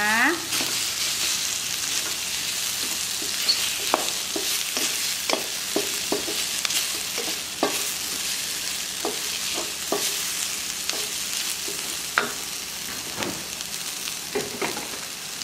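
Chili, shallot and garlic spice paste sizzling in hot oil in a stainless-steel wok, with a wooden spatula scraping and knocking against the pan at irregular moments as it is stirred.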